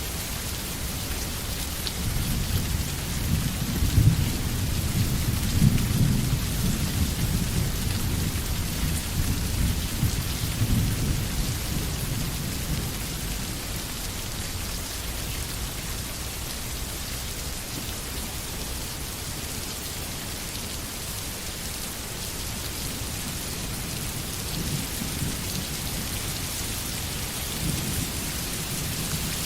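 Steady rain falling in a forest, an even hiss throughout. A low rolling rumble swells in about two seconds in, peaks a few seconds later and fades away by around twelve seconds, with a smaller rumble near the end.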